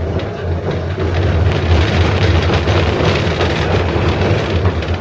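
71-605A (KTM-5) tram under way: a steady, loud mix of wheels on rail, body rattle and a low motor hum, with scattered clicks and knocks from the track.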